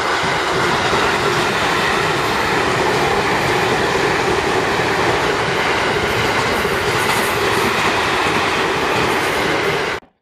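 Electric trains running at speed, a limited express and a commuter train passing each other: a steady, loud rumble of steel wheels on rail with some clatter. It cuts off suddenly near the end.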